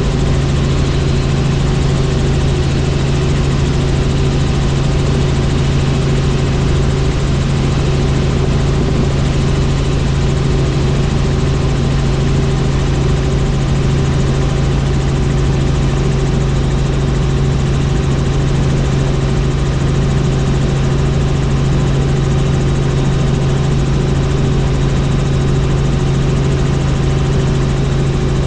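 Helicopter in flight: the steady drone of its rotors and turbine engine, with a strong low hum, holding even with no change in pitch or level.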